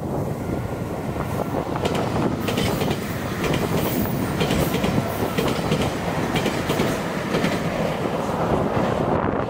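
Electric train running with a steady rumble, its wheels clicking over rail joints in a quick run of clacks from about a second and a half in until near the end.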